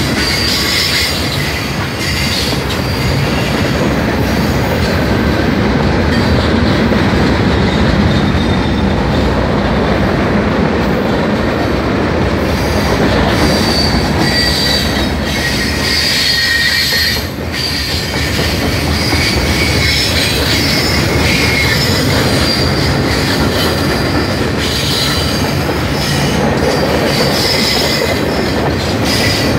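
Freight cars of a long mixed freight train rolling past close by: a loud, steady rumble of steel wheels on rail, with high-pitched wheel squeal coming and going.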